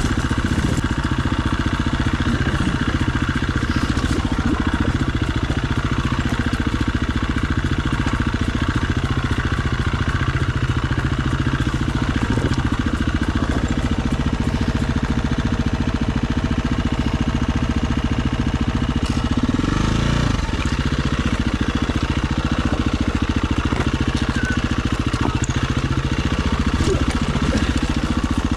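Dirt bike engine running steadily at low revs, with one brief rev about two-thirds of the way through.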